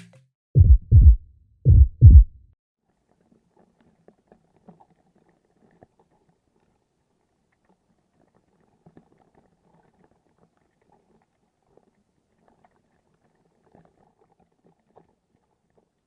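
Heartbeat sound effect: two deep double thumps, lub-dub, lub-dub, about a second apart. After them there is only very faint scattered crackling.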